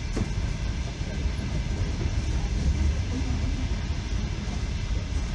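Russian Railways passenger carriage running on the rails, heard from inside: a steady low rumble with running noise from the wheels and track.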